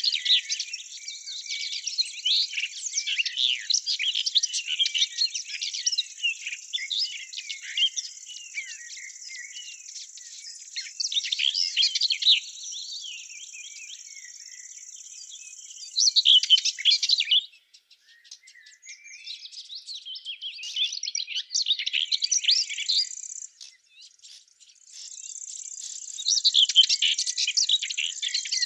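Small songbirds chirping and singing, many overlapping short calls, over a steady high hiss. The sound drops out briefly twice in the second half.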